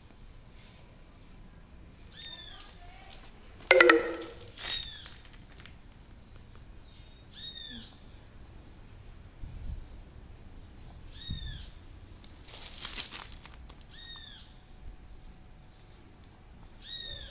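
Birds calling: one bird repeats a short arched chirp every two to three seconds, and a much louder call falling in pitch comes about four seconds in. A brief rushing noise comes about two-thirds of the way through.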